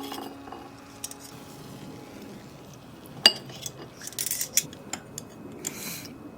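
Utensils knocking on dishes: one sharp, ringing clink about three seconds in, then a run of lighter taps with short hissy rustles.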